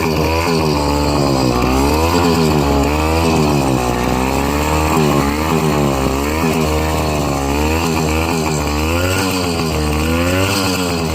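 80cc two-stroke motorized-bicycle engine running loud with its stock exhaust cap removed. The revs rise and fall again and again, roughly every second and a half.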